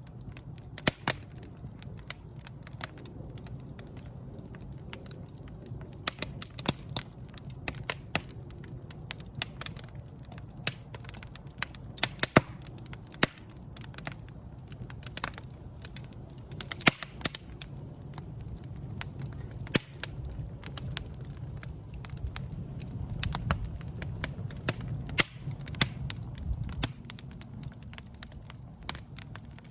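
Wood fire in a fireplace crackling, with irregular sharp snaps and pops over a low, steady rumble of the flames.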